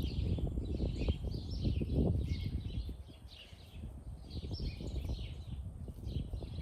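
Small birds chirping over and over, over a louder low rustling and crunching of soil and vines being dug through with a garden fork.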